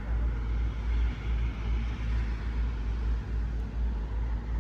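Steady road noise of a moving car, with a heavy low rumble.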